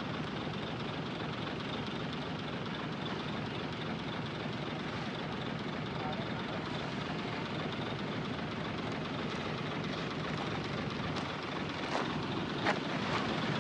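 Heavy diesel earthmoving machinery running steadily, with a few sharp metallic clanks near the end.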